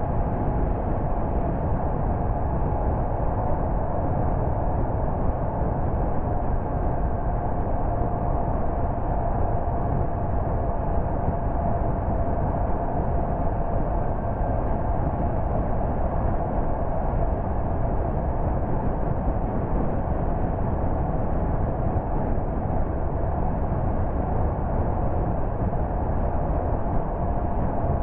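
Steady road and engine noise of a car driving at an even pace, with a faint constant hum and no sudden sounds.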